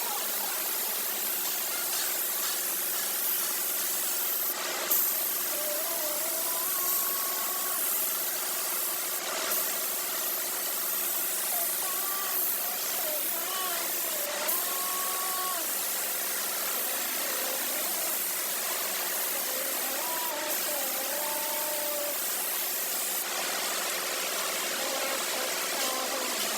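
Steady machine noise with a strong hiss, over which faint pitched sounds glide up and down every few seconds.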